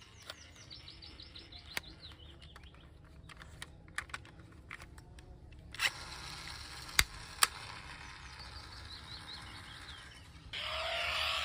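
Toy cars being handled: scattered sharp clicks and taps. A louder, busier noise sets in near the end.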